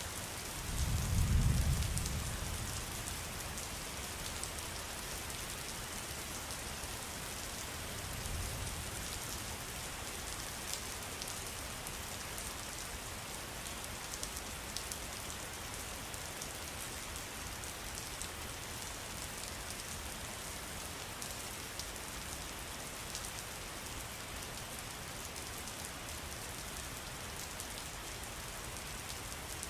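Steady rain falling, an even hiss with scattered drop ticks. A low rumble swells about a second in and more weakly again near eight seconds.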